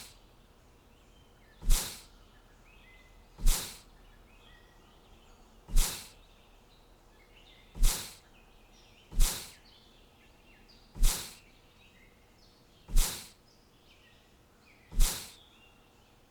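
Small birds chirping faintly, cut through by a short, sharp swish-like hit about every two seconds, eight times in all.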